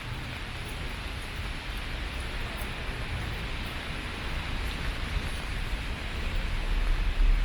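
Steady rain falling, an even hiss over a low rumble, getting slightly louder near the end.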